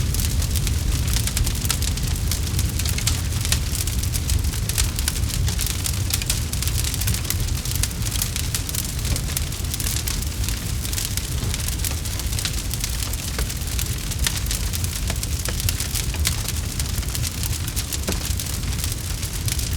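Campfire crackling: many small snaps and pops, with a steady low rumble of the burning fire underneath.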